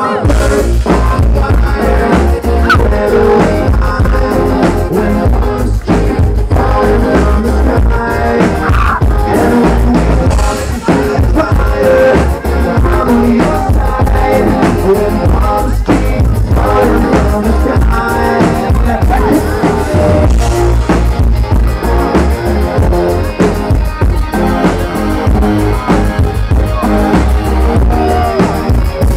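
Loud rock band music with a steady drum and bass beat, the bass and drums coming in at the start.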